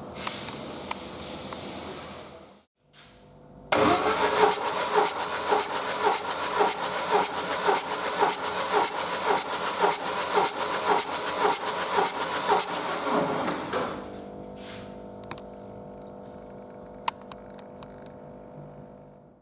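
Starter motor cranking a Peugeot 2.0 HDi DW10TD diesel engine on a test stand for about ten seconds, in an even rhythm, for a compression check. It starts suddenly a few seconds in. After it stops, a fainter steady hum remains.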